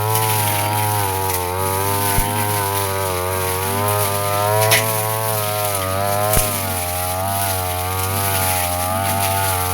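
Brush cutter engine running at high speed with its blade spinning through grass, the pitch wavering a little as the load changes. A few sharp ticks cut through about two, four and a half and six and a half seconds in.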